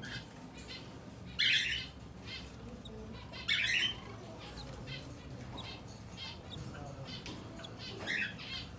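Cockatiels calling: two loud, harsh squawks about one and a half and three and a half seconds in, a shorter one near the end, and fainter short chirps between them.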